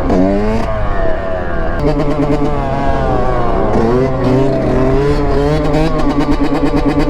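Dirt bike engines revving, more than one at once, their pitch falling and climbing as the throttles are worked, with one engine holding a steadier note from about two seconds in.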